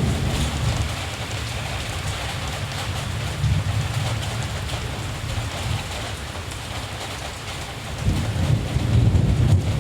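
Steady rain falling, under the low rumble of distant thunder that eases off and then swells again about eight seconds in.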